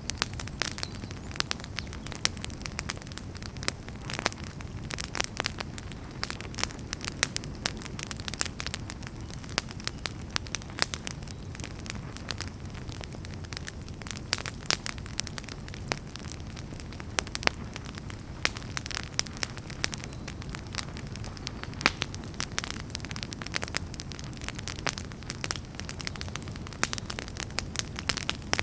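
Wood fire burning, with a steady low rumble and frequent irregular crackles and pops from the burning firewood.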